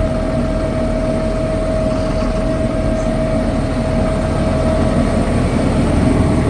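Large diesel tractor engine idling close by, a steady low rumble with a steady whine held over it.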